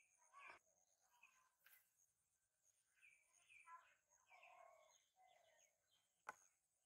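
Faint bird calls, short chirping notes at intervals, with one sharp click about six seconds in.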